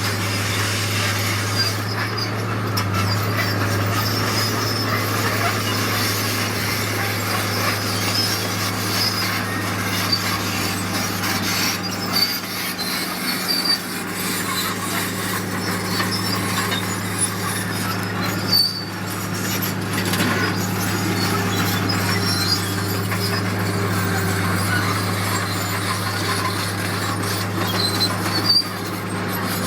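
Heavy diesel earthmoving machinery running steadily under load, with a constant low engine hum, a wide metallic rasping noise and a few scattered clanks.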